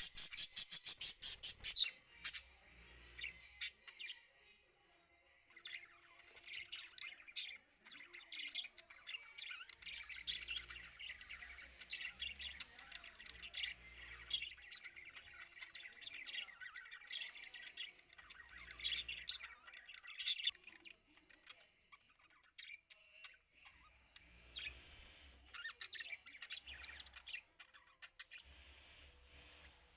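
Budgerigars chirping and chattering in a rapid, continuous stream of short high calls. The loudest is a fast run of chirps in the first two seconds, with brief lulls later.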